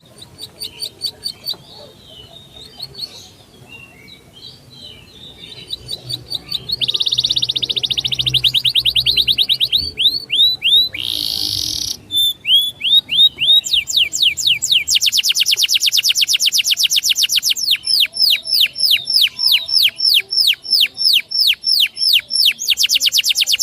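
A songbird singing a fast string of high chirps and rapid repeated trills. It starts sparse, then builds from about six seconds in into long, dense trilling with downward-swept whistled notes. A brief rushing burst of noise comes about eleven seconds in.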